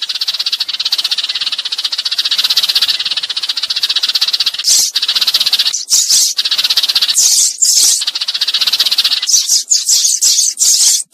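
Sparrows calling: a fast, continuous rattling chatter, broken by brief pauses, with louder, higher chirps in bunches from about halfway and packed more closely near the end. It is a sparrow flock-call used as a decoy to lure wild sparrows in.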